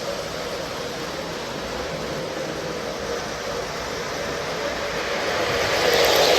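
O scale Lionel model train, two Dash 8 diesel locomotives pulling tank cars, running along the track with a steady rolling rumble that grows louder near the end as it comes close.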